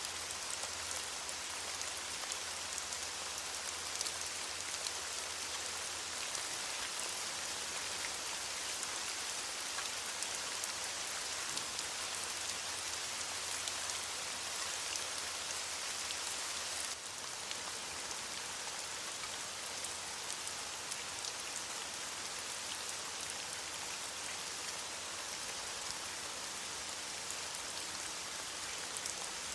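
Steady rain falling on leaves, a dense patter of drops. It drops slightly in level a little past halfway.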